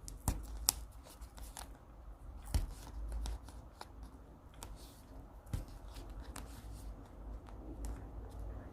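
Paper and stationery being handled on a desk: soft rustling of paper with scattered sharp ticks and taps, the loudest near the start and about two and a half and five and a half seconds in.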